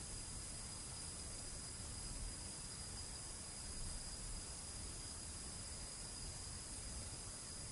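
Sand running through an hourglass: a steady, fine, high hiss with no breaks.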